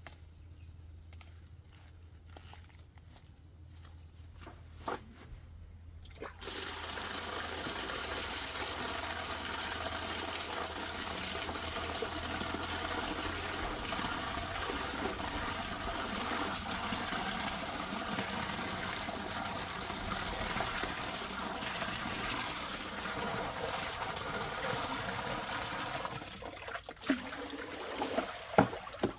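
Water running in a steady stream, starting suddenly about six seconds in and stopping near the end, followed by a few knocks.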